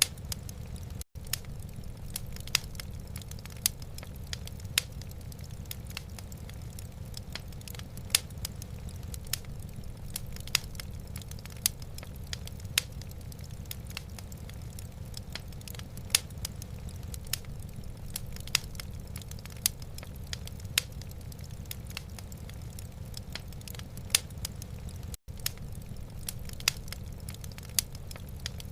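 Wood fire crackling in a fireplace: irregular sharp pops and snaps, a loud one every second or so among many fainter ones, over a steady low rumble. The sound cuts out for an instant twice, about a second in and again near the end.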